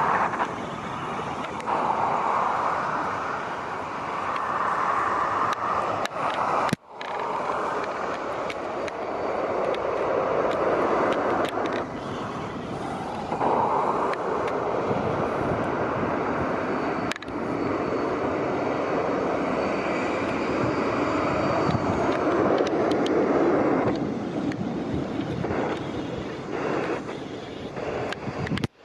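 Jet airliner engines heard from the ground, a continuous rushing noise that swells and eases, cut off briefly about seven seconds in.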